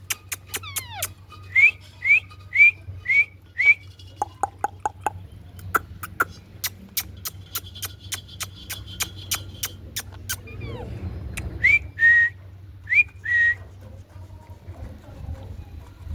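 Ringneck parrot chirping: a quick run of five short rising chirps, then more chirps near the end. Many sharp clicks and a low steady hum run underneath.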